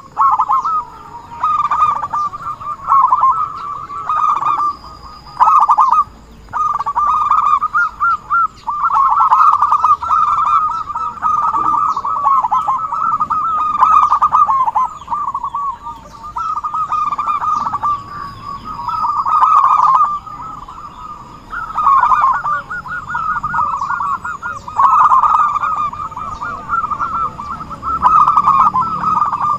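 Zebra dove (perkutut) song: rapid trilling coos repeated one after another almost without pause, broken only by brief gaps.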